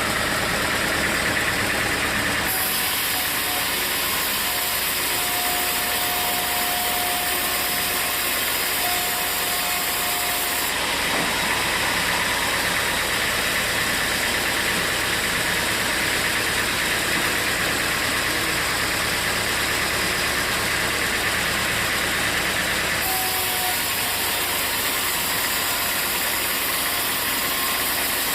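Sawmill machinery running continuously: an engine-driven saw, with its noise shifting in character a few times as the work goes on.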